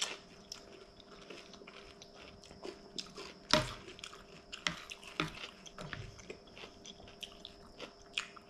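Close-up chewing and crunching of crisp fried anchovy sambal and raw cucumber, a run of irregular short crunches and mouth clicks. A spoon knocks against the plate about three and a half seconds in, the loudest sound.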